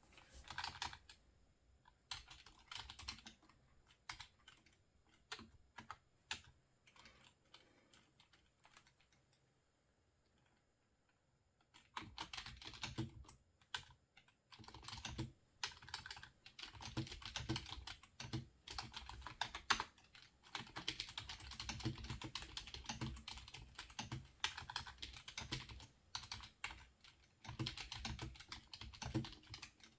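Typing on a computer keyboard: scattered keystrokes at first, a short lull, then bursts of fast, steady typing from about twelve seconds in.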